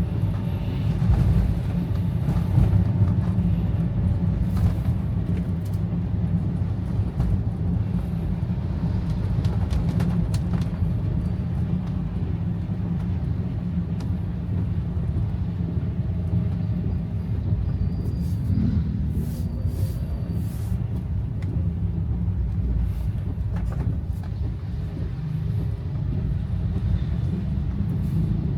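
Steady low rumble of a car driving, engine and tyre noise on a wet road, with a lighter hiss above it.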